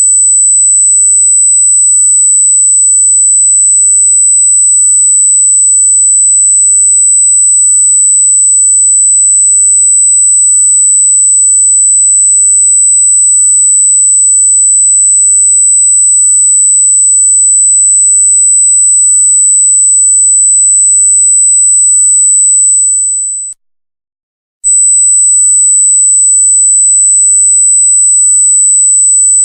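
A loud, steady, piercingly high electronic tone, one pure pitch held without change. About 23 s in it fades out, stops for about a second, then comes straight back at full loudness.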